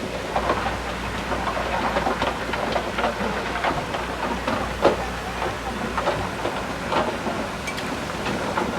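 Crawler bulldozer, a Komatsu D31P, running with its diesel engine droning under a stream of irregular metallic clanks and rattles, with one sharper clank about halfway through.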